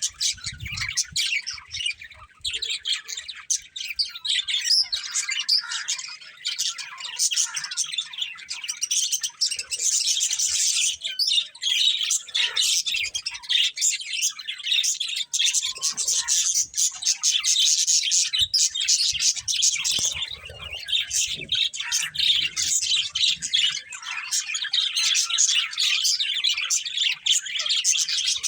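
Budgerigars chirping and chattering continuously, many rapid high chirps and squawks overlapping.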